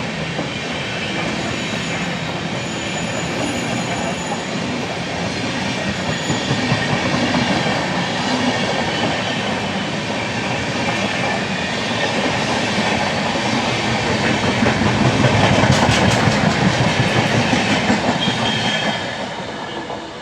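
A train running on the track with a clickety-clack of wheels over rail joints. It grows louder about three-quarters of the way through, then falls away near the end.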